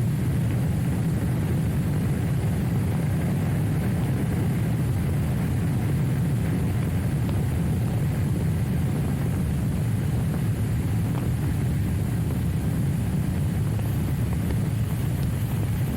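Trials motorcycle running at a steady pace: a low, even drone with no rise or fall in revs.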